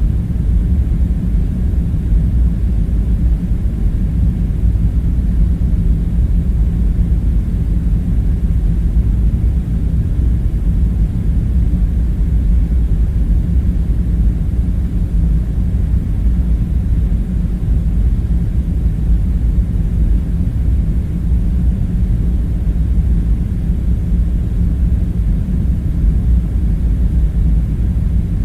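Steady low rumble with a faint hum: the continuous background drone of an underground bunker room.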